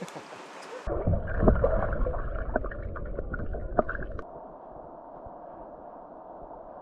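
Creek water gurgling and rumbling as heard underwater: muffled and low, with a few sharp clicks. It gives way at about four seconds to a quieter, steady muffled wash of water.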